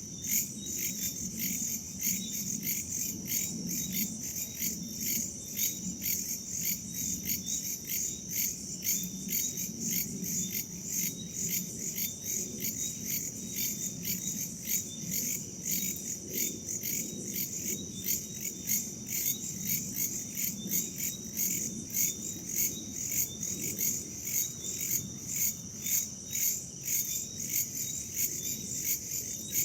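Crickets and other insects chirping in a steady, even pulse several times a second, with a soft low rumble of wind beneath.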